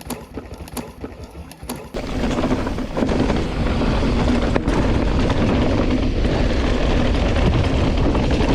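Electric mountain bike rattling over rough, rocky ground with wind rushing on the microphone, loud and steady from about two seconds in, after a couple of seconds of scattered clicks.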